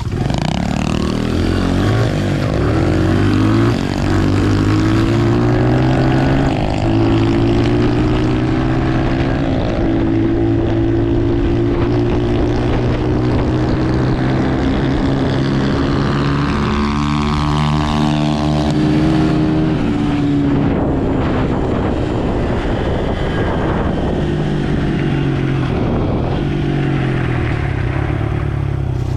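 Dirt bike engine running under way, its pitch climbing as it accelerates at the start and then holding steady. About two-thirds through, the pitch rises and falls again.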